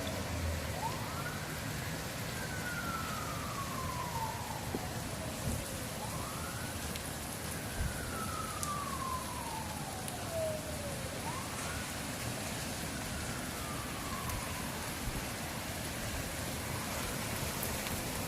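Faint emergency-vehicle siren wailing over steady rain: each cycle rises quickly and then falls slowly, about every five seconds, three full cycles and a fainter fourth near the end.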